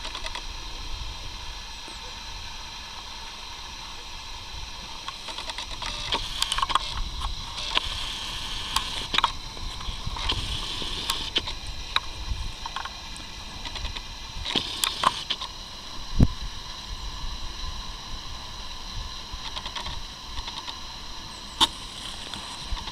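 Newag Impuls electric multiple unit approaching in the distance: a steady running hum and a faint high tone over a low rumble, with scattered sharp clicks and knocks through the middle of the stretch.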